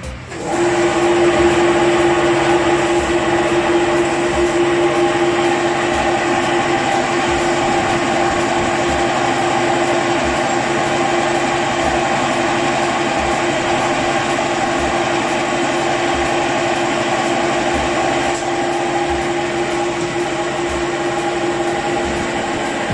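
A machine starts about half a second in and runs steadily with a strong droning hum and faint, evenly spaced low knocks, like workshop machinery.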